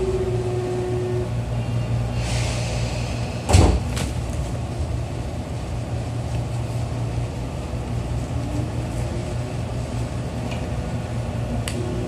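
Inside a Tobu 9000-series commuter train car: a short hiss of air, then the doors shut with one loud thud about three and a half seconds in. From about eight seconds in, a rising whine from the traction motors as the train starts to pull away, over a steady low hum.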